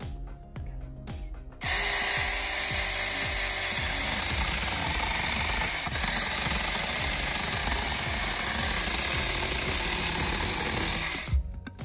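Saker battery-powered mini chainsaw cutting through a tree branch: the saw starts about two seconds in, runs steadily under load for about nine seconds, and cuts off suddenly near the end.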